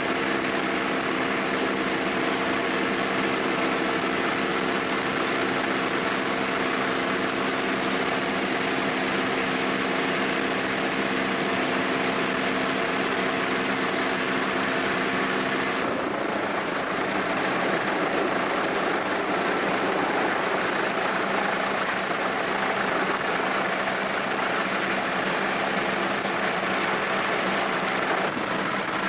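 Steady machinery noise: a hum of several steady tones over a rushing noise, the tones dropping away about halfway through and leaving the rushing noise alone.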